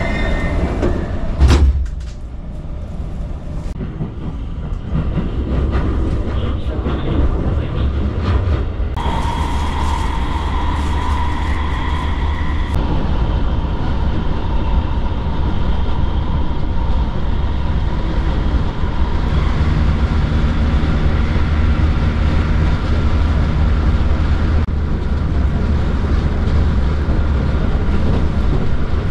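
Inside a commuter train car: a loud thump about a second and a half in as the doors shut, then the train running with a steady low rumble. A high whine joins for a few seconds partway through.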